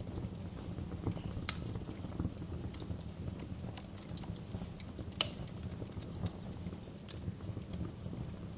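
Wood fire crackling: scattered sharp pops and snaps over a steady low rumble, with two louder pops about a second and a half in and about five seconds in.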